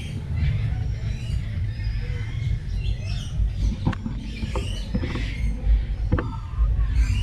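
Small aviary birds chirping and calling with many short, quick notes, over a loud low rumble.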